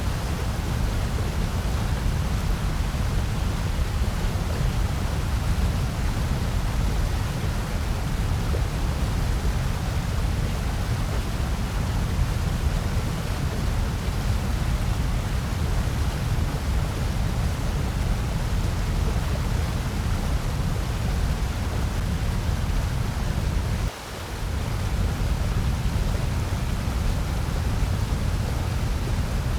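Steady generated noise track presented as white noise: an even hiss weighted toward the deep end, with a short drop in level near the end.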